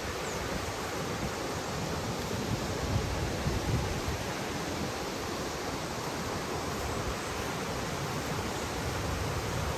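Steady rush of falling water from a waterfall, with uneven low rumbles of wind buffeting the microphone.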